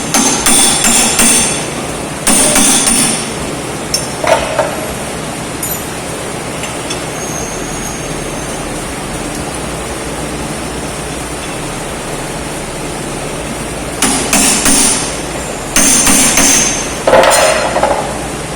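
Metal being struck with a hammer in short bursts of several blows each: three bursts in the first few seconds and three more near the end.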